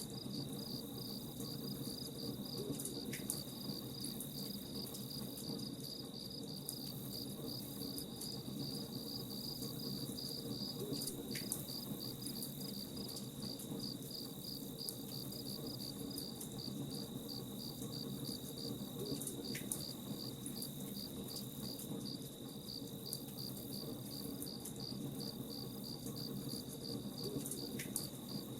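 Crickets chirping in a steady, even rhythm over the crackle of a campfire, with scattered sharp pops and a low rumble beneath.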